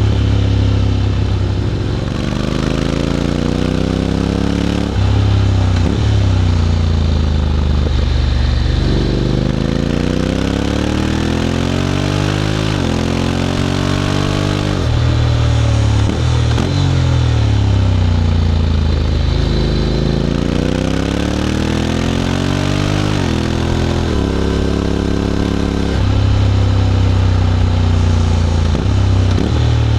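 Honda X-ADV 750's parallel-twin engine through an SC-Project titanium slip-on exhaust, pulling up through the rev range and easing off again and again as the bike is ridden. Its dual-clutch gearbox makes several quick gear changes, heard as sudden jumps in pitch.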